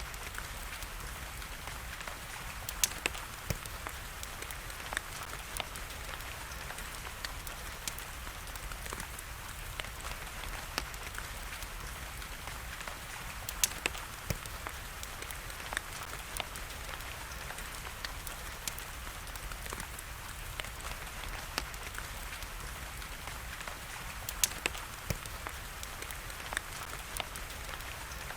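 Wood fire crackling, with irregular sharp pops and a few louder snaps, over a steady hiss of rain.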